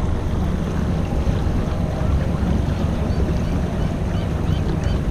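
Steady low rumble of a boat's engine with wind on the microphone, and faint short chirps in the second half.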